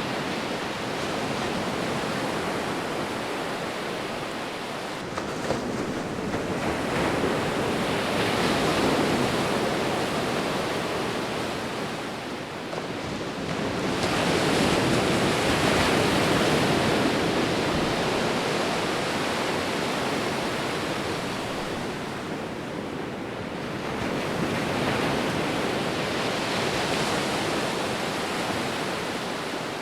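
Sea waves breaking as surf: a continuous rush of water that swells louder three times as each wave comes in and then eases off.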